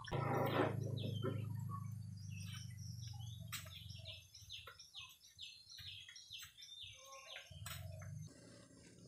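Small birds chirping, many short falling notes a few times a second, over a low hum that fades during the first few seconds and returns briefly near the end.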